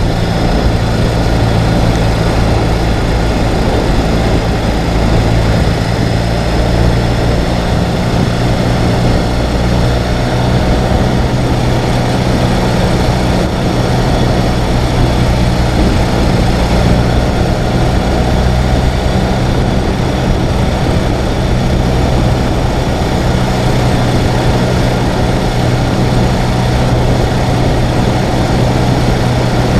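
Ural sidecar motorcycle's air-cooled flat-twin engine running at a steady, even speed, with a constant rush of noise over it.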